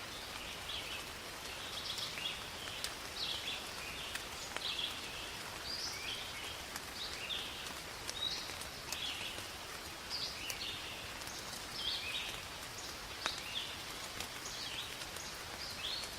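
Steady rain falling in a forest, a constant hiss with scattered sharp drip ticks, while a bird repeats short chirping calls about once a second.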